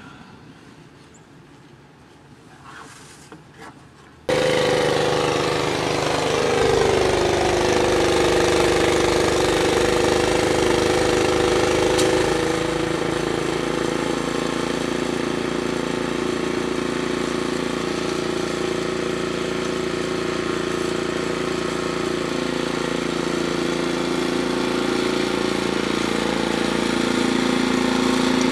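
An engine starts running abruptly about four seconds in and keeps running steadily. Its pitch drops soon after it starts, then levels off.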